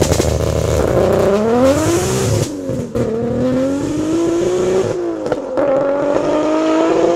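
Nissan Skyline R33 GT-R's single-turbo straight-six, stroked to 3.2 litres, accelerating hard: the revs climb, drop at a gear change about two and a half seconds in, climb again, and drop at a second shift about five seconds in before rising once more.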